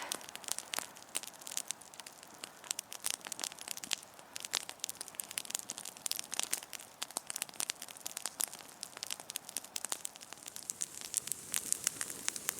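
Wood campfire crackling, with many irregular sharp pops over a faint hiss, busier and louder near the end.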